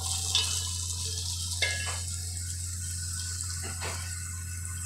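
Sliced onions and ginger sizzling in hot oil in a metal pan as they sauté, with a few light clicks from stirring. A steady low hum from a kitchen exhaust fan runs underneath.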